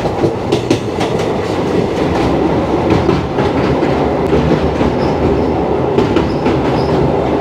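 Indian Railways passenger train running at speed, heard from an open coach doorway: a steady rumble of wheels on rail, with frequent sharp clacks as the wheels pass over rail joints.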